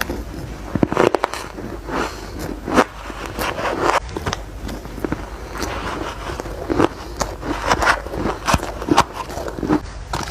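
A person biting and chewing ice close to the microphone: a quick, irregular run of crisp crunches, several a second.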